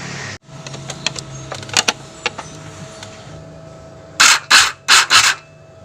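A few light clicks and ticks of tool work, then four short, loud hissing blasts in quick succession, each about a quarter of a second long.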